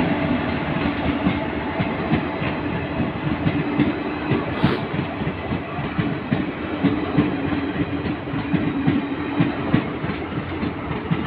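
Passenger express train's coaches rolling past, their wheels clacking irregularly over the rail joints under a steady rumble. There is one brief sharp metallic squeal a little under halfway through.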